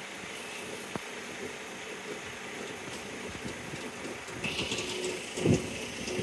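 Freight train of JNA bogie box wagons rolling past, a steady rumble of steel wheels on rail. About four seconds in a high steady ringing joins in, and near the end heavy clunks of the wheels over the rail joints come one after another.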